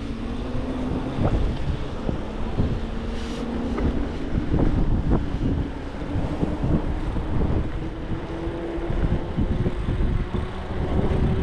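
Wind buffeting the microphone on a moving e-bike, with the electric motor's steady whine slowly rising in pitch under heavy load, and scattered knocks from the road.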